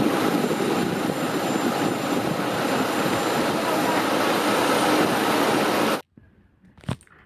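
Jet airplane engine noise, a loud steady rush that cuts off suddenly about six seconds in.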